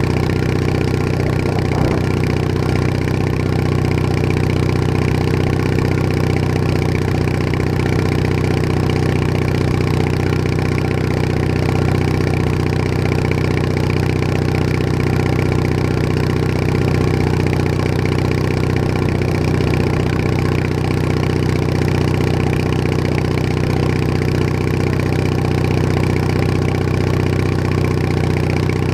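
Bolens HT20 garden tractor engine running steadily at an even speed while the tractor is driven.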